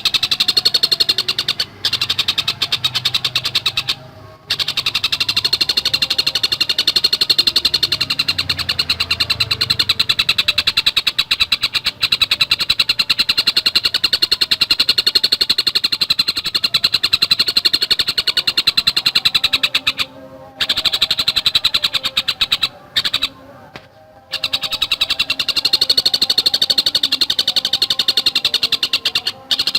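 Tengkek buto (collared kingfisher) calling in a fast, tightly packed run of repeated sharp notes, stopping briefly a few times before starting again.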